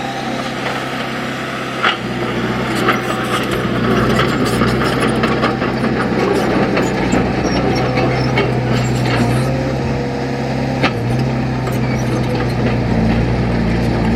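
Heavy earthmoving machine's engine running steadily, with scattered metallic clanks and rattles; it grows a little louder about two seconds in.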